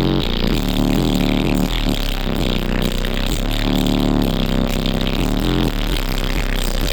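Music played loud through a car audio system of twelve Resilient Sounds Gold V2 15-inch subwoofers, pounding away with deep bass notes that step from one pitch to the next.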